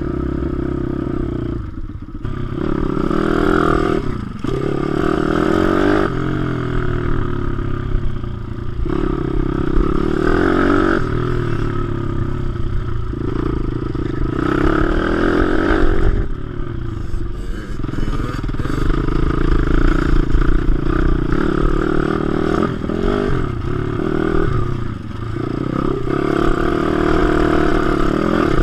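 WPB 155 pit bike's single-cylinder four-stroke engine under hard throttle, revving up through the gears and dropping off sharply each time the throttle is shut, over and over. The sharp drops mark gear changes and braking for corners.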